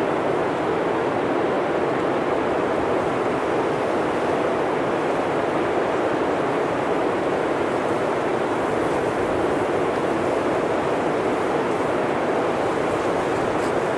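Steady blizzard wind blowing through a forest, a constant rushing noise with no gusts or breaks.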